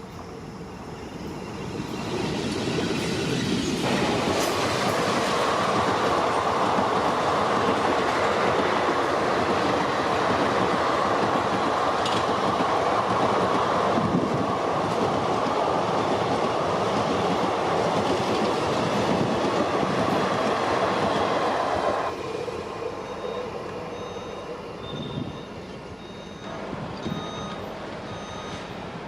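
Indian Railways express train hauled by an electric locomotive passing at speed: the noise of wheels and coaches builds over the first few seconds, runs loud and steady, then drops off abruptly about 22 seconds in as the train clears.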